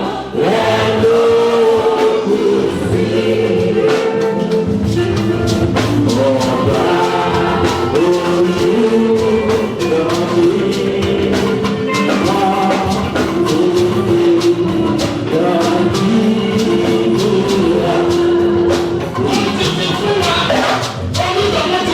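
Church gospel music: a choir singing over drums and tambourine with a steady beat.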